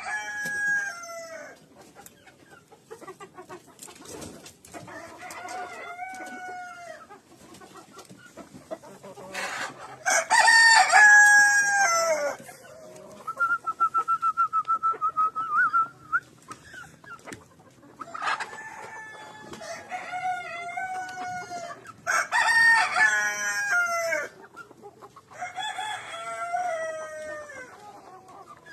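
Rooster crowing repeatedly, about six long drawn-out crows spread across the stretch, with softer clucking between them. A steady warbling call of a few seconds comes about midway.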